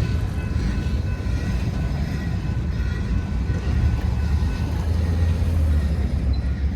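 Freight train rolling past, a steady heavy rumble with faint high tones from the wheels and rails.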